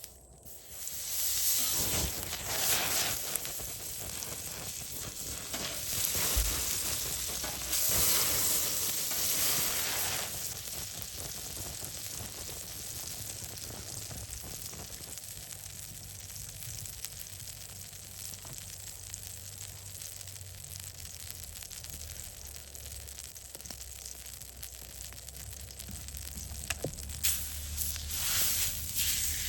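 Food sizzling as it fries over an open campfire, louder at first and then settling to a steadier sizzle.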